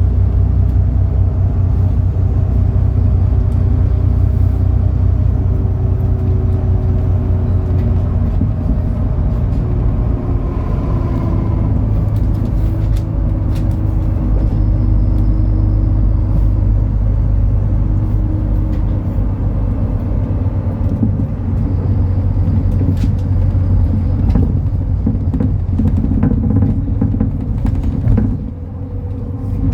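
MAN Lion's City NL293 city bus's diesel engine running while the bus drives, a steady low rumble whose pitch drifts slowly up and down. It eases off briefly near the end, then picks up again.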